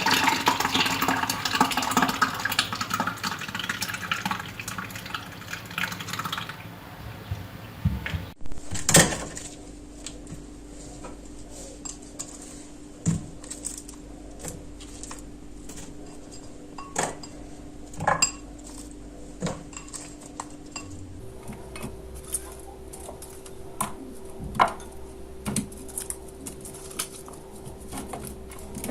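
Kitchen work: water running from a tap for the first several seconds, then scattered clinks and knocks of dishes and utensils over a steady low hum, which steps up in pitch about two-thirds of the way through.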